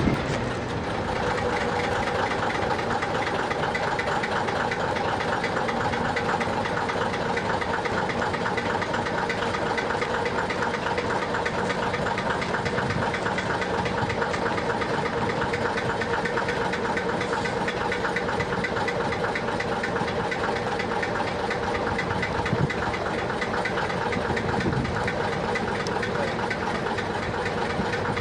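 Diesel locomotive engine idling steadily, with a fast even knock and a steady whine over it.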